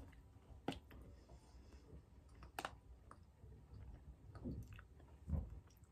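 Faint mouth sounds of chewing gummy candy: a few scattered sharp clicks, then two duller, lower knocks in the last second and a half.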